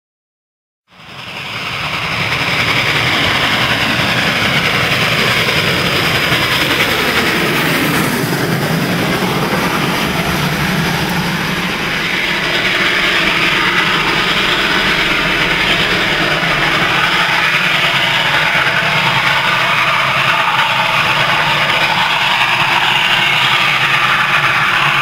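Passenger cars of a steam-hauled excursion train rolling past close by: a loud, steady rumble and rush of wheels on rail that begins about a second in.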